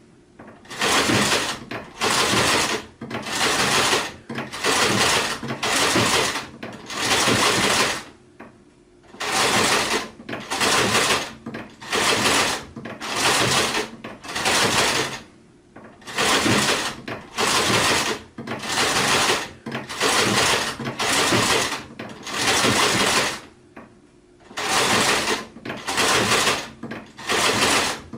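Sewing machine stitching in short runs of under a second each, about one a second, stopping and starting repeatedly, with two longer pauses of about a second and a half.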